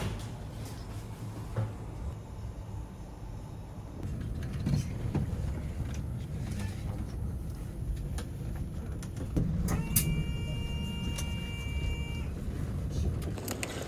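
Low, steady rumble of a vehicle or traffic, with scattered clicks and knocks. About ten seconds in, a steady electronic chime-like tone of several pitches sounds for about two seconds and then stops.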